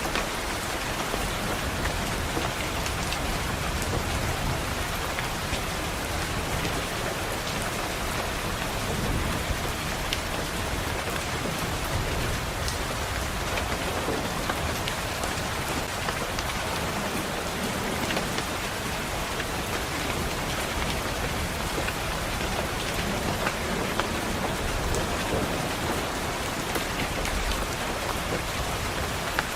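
Steady rain pattering on a window, with low rolls of thunder swelling up several times.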